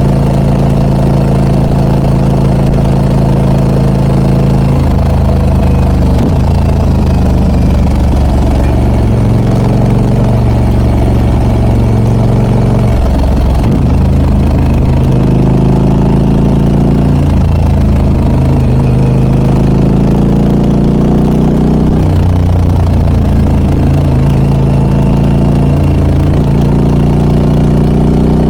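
Harley-Davidson Pan America 1250 Special's Revolution Max V-twin running through a Scorpion aftermarket exhaust while riding. The engine note holds steady at first, then from about five seconds in rises and falls again and again as the throttle is opened and closed and gears change.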